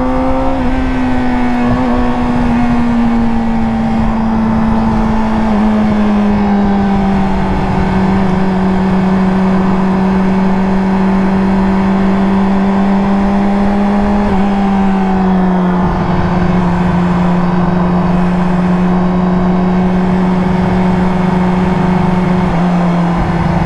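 Yamaha R6 sport bike's inline-four engine running at high revs while cruising, its pitch rising a little at first and then easing down in small steps, with steady wind rush over the microphone.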